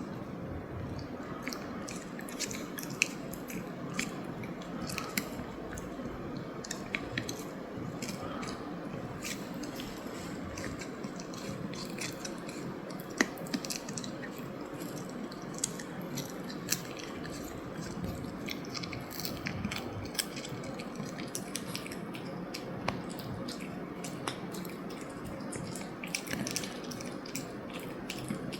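Eating at a table: scattered sharp clicks of utensils against dishes, with chewing, over a steady room murmur.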